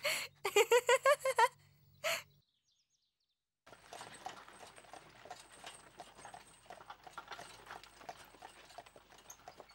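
A quick run of high, rapid laughter-like voice sounds, then, after a short silence, a horse's hooves clip-clopping in a steady run of beats as it pulls a two-wheeled cart. The hoofbeats are much fainter than the voice.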